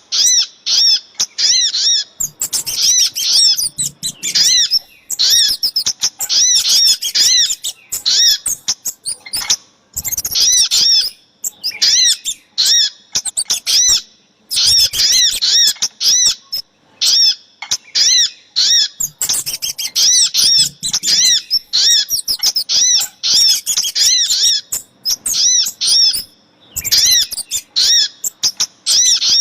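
Bird-lure recording of small songbirds, sogok ontong (spiderhunter) and kemade, calling in fast runs of sharp, high, repeated notes, a few seconds at a time with short breaks between.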